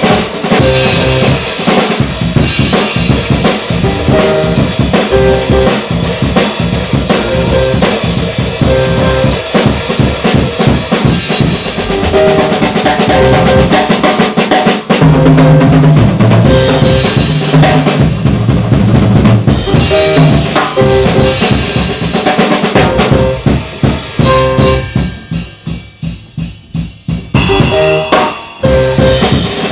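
Jazz piano trio playing, with the drum kit busy and prominent: bass drum, snare and rimshots over sustained bass and piano notes. Near the end the band drops for about three seconds to soft, spaced hits, then comes back in full.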